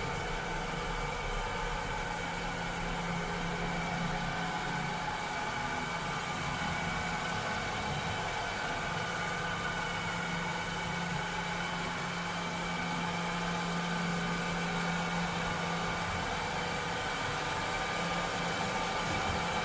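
A cleaning robot running steadily: a continuous motor whir, with a low hum and faint higher whining tones over an even hiss.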